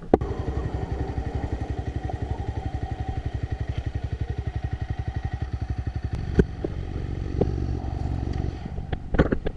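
Motorcycle engine running at low revs with a steady, rapid pulse, with a sharp click about six seconds in.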